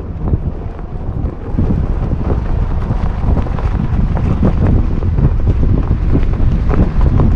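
SUV climbing a snowy hill on snow chains: a dense, low rumble full of irregular knocks, getting louder about a second and a half in, with wind buffeting the microphone.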